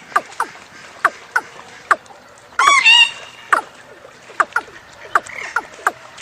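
Bird calling: a series of short, sharply falling chirps repeated at irregular intervals, with a louder, more complex call about three seconds in.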